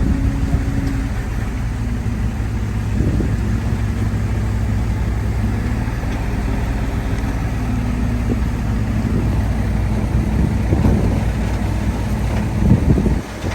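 Heavy diesel earthmoving machinery engine running steadily, with scattered clanks in the second half and a sudden drop in level just before the end.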